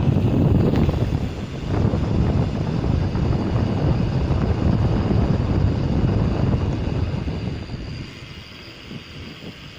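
Wind buffeting the microphone of a camera carried on a mountain bike during a descent, a dense low rumble mixed with tyre and bike noise. It eases off about eight seconds in as the bike slows.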